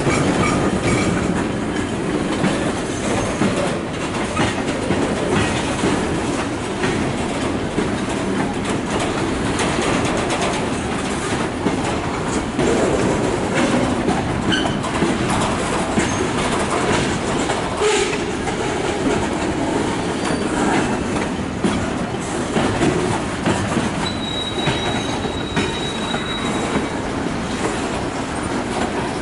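Freight train of tank cars and boxcars rolling past, its steel wheels clacking over the rail joints in a steady rumble with many short knocks. Brief high-pitched wheel squeals come now and then, and a longer thin squeal lasts about two seconds near the end.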